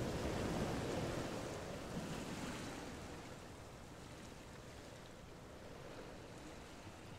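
Steady rushing of wind and sea waves, with no distinct strokes, growing quieter over the last few seconds.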